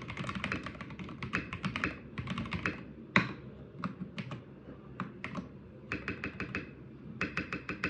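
Typing on an RK71 mechanical keyboard fitted with retooled Cherry MX Black linear switches. Keystrokes come in quick runs, with one louder clack about three seconds in and a few slower, spaced presses in the middle.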